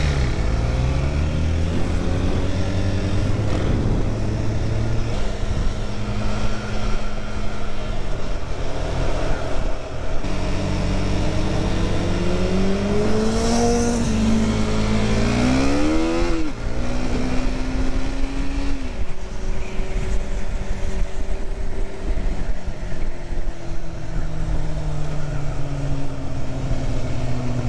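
Vehicle engines running at road speed and revving, their pitch climbing steeply about halfway through and then dropping, as in a gear change, with steady wind noise throughout.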